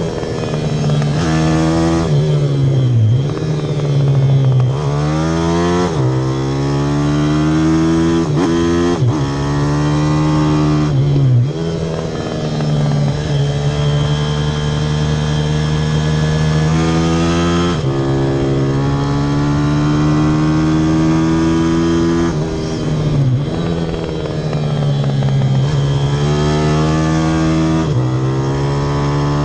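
Pit bike's single-cylinder engine running hard, its pitch climbing steadily under throttle and then dropping sharply off the throttle, again and again, as the bike laps a circuit.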